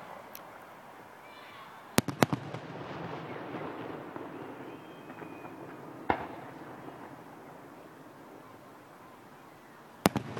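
Aerial firework shells bursting at a distance: two sharp bangs about two seconds in, followed by echoing rumble, a single bang around six seconds, and another pair of bangs near the end.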